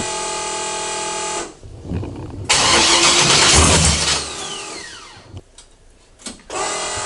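1976 Camaro's engine being started: it fires with a loud burst for about a second and a half, then dies away with a falling whistle as it winds down, followed by a few clicks. A steady whine runs before and after.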